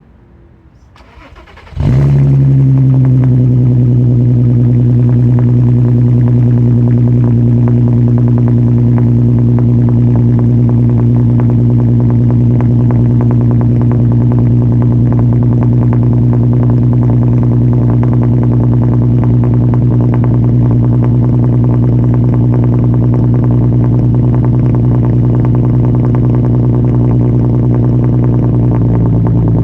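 2008 Volkswagen R32's 3.2-litre VR6 breathing through an XForce cat-back exhaust, cold-started: it fires about two seconds in with a sharp flare, then settles into a loud, steady idle.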